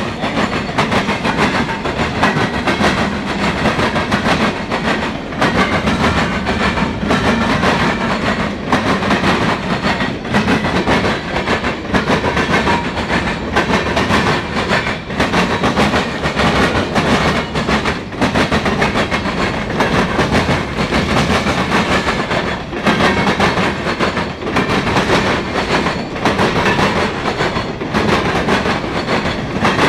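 Norfolk Southern mixed freight train's cars rolling past, loud and steady, the wheels clattering and clacking over the rail joints in a repeating rhythm.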